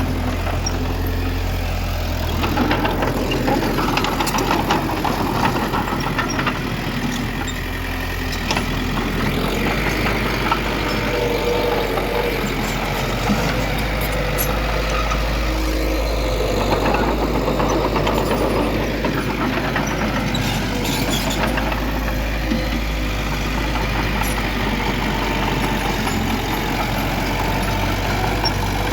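Diesel engine of heavy earthmoving machinery running steadily, its pitch and level rising and falling a little with the load, with a few sharp metallic clicks and clanks.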